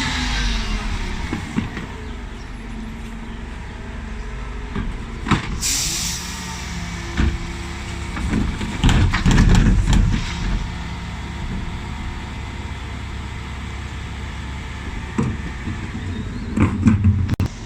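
Dennis Elite 6 bin lorry's engine running steadily while its Terberg bin lift empties wheelie bins, with clanks and bangs as the bins are tipped, the loudest run of thuds about halfway through.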